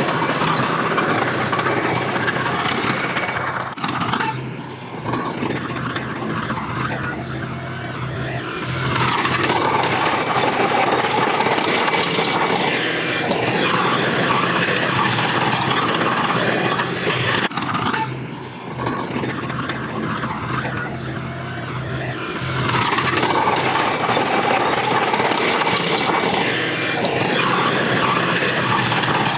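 Diesel engines of heavy earthmoving machinery (bulldozer and dump trucks) running steadily, with two brief dips in level about four and eighteen seconds in.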